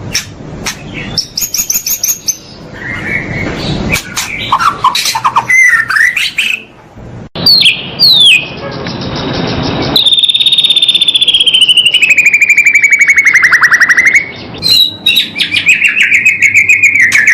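Songbird singing a loud, varied song of sliding whistles and chirps, spliced with abrupt cuts; about ten seconds in comes a long buzzy trill that slowly falls in pitch, followed by more quick chirping notes.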